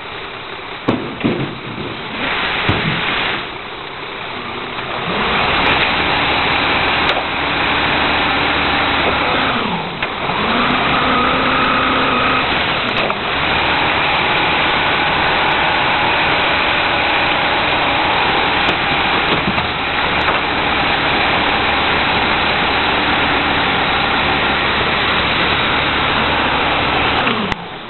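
Heil 5000 rear-loader recycling truck running a packing cycle: the engine revs up to drive the hydraulic packer and holds a steady run. The engine dips and picks up again twice, then drops off suddenly near the end. A few knocks come in the first seconds.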